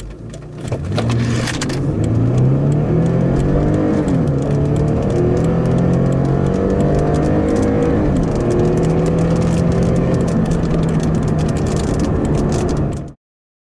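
2006 Lexus IS250 AWD's 2.5-litre V6 accelerating hard from a standstill, heard from inside the cabin with the windows up: the engine note climbs steadily, drops sharply twice as the automatic upshifts, and climbs again after each shift. The sound cuts off suddenly near the end.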